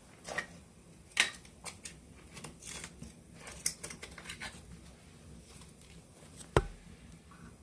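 Wood campfire crackling, with irregular sharp pops: a loud one about a second in, a run of small crackles in the middle, and another loud pop near the end.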